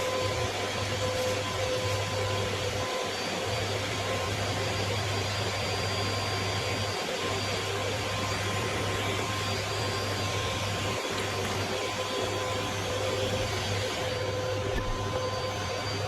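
A vacuum cleaner running steadily, its motor giving a constant whine over a rushing airflow noise.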